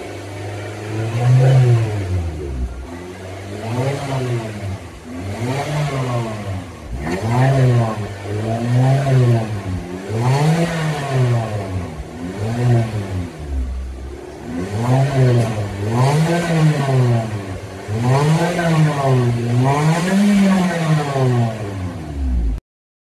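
2018 Suzuki Swift's engine revved over and over, each rev rising and falling, roughly one every second and a half, during a catalytic converter cleaning, with the cleaner and water being blown out through the tailpipe. The sound cuts off suddenly near the end.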